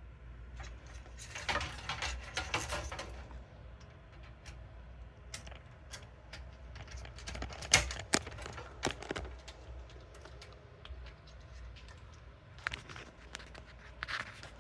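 Scattered clicks, taps and light metallic rattles of hands handling screws and parts in a desktop PC case, in three short flurries, the loudest a sharp click about eight seconds in.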